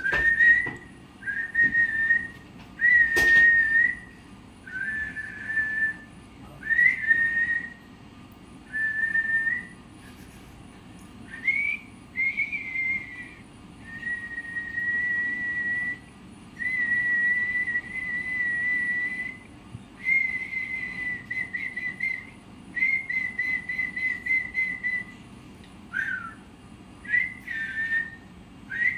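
A parrot whistling a long run of clear notes at much the same high pitch, some short, some held for two seconds or more, a few rising or dipping at the start and a few with a warbling flutter in the second half.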